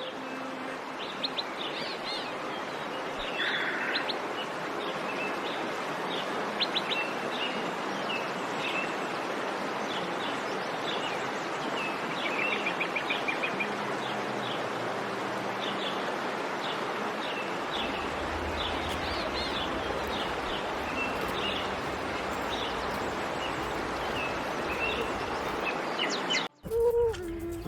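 Many small birds chirping over a steady background hiss. Near the end the ambience cuts off abruptly and a different, lower pitched sound starts.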